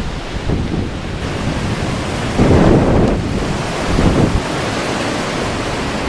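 Strong wind gusting through trees and buffeting the microphone, as a steady rush with a heavier gust about two and a half seconds in and another near four seconds.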